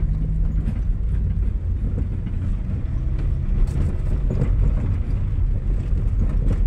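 A motor vehicle running with a steady low rumble and some light knocks and rattles.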